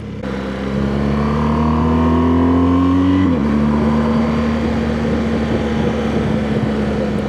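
BMW R1200GS boxer-twin engine pulling through a gear, its pitch rising steadily, then an upshift about three seconds in drops the revs and it runs on at a steady speed, with road and wind noise.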